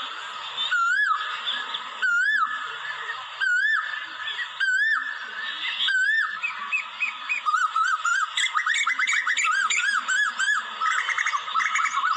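Asian koel calling: a clear whistled note that rises and falls, given five times about a second and a quarter apart, then from about seven seconds in a fast run of shorter whistled notes.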